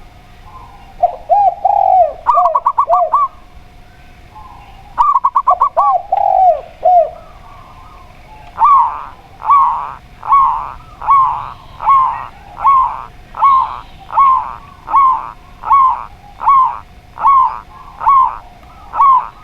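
Zebra dove and spotted dove cooing. Two bursts of quick, rolling cooing phrases come first, then a steady run of about fifteen evenly spaced coos, a little under one a second.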